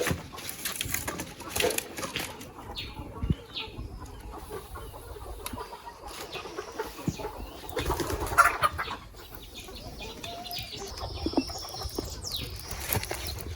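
Chickens clucking and flapping their wings, with scattered short knocks and clicks; the busiest stretch comes about eight seconds in.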